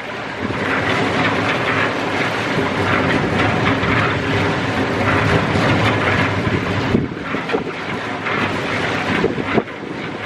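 Steady running machinery noise with wind on the microphone, dipping briefly about seven seconds in.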